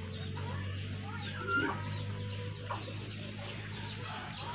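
Birds chirping in many short, high, falling notes, several a second, over a low steady hum.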